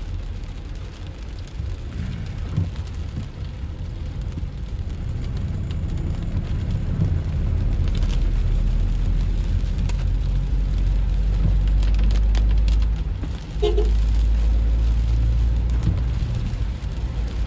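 Low, steady rumble of a car driving, heard from inside the cabin, with rain on the car. The rumble dips briefly about thirteen seconds in.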